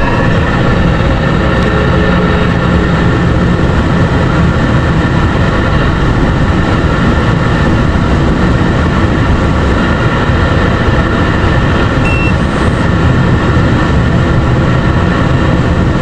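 Truck driving: steady engine and road noise, heavy at the low end.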